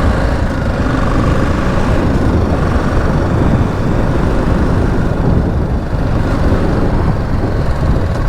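BMW G 310 GS single-cylinder motorcycle engine running steadily while riding, mixed with a dense low rumble of wind noise on the microphone.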